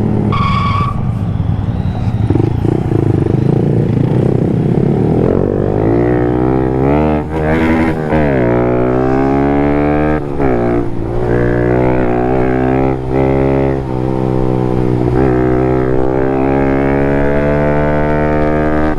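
Small Honda 125 cc single-cylinder motorcycle engine accelerating and shifting up through the gears, its pitch climbing and dropping back at each shift several times, with wind noise underneath. A brief high beep near the start.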